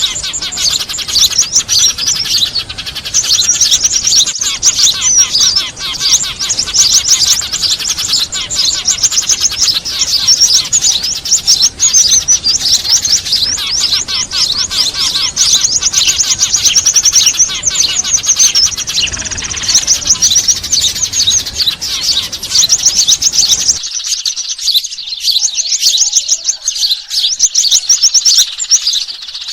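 Dense, rapid, high-pitched chirping and chattering of many small birds, a lure recording of noisy Eurasian tree sparrows and other small birds used to call birds to a trap. About 24 s in the low background hiss drops away while the chirping carries on.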